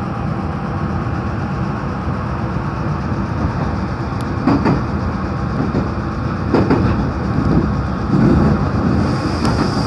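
Meitetsu 3500-series electric train running, heard from inside the passenger car: a steady rumble of wheels on track, with a few sharp clacks from rail joints in the second half.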